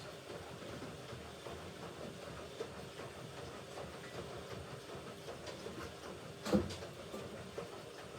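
Hoover Ecologic Computer Washer 1300 washing machine running a rinse-and-spin programme: its drum turning with a steady rumbling mechanical noise. A single louder knock about six and a half seconds in.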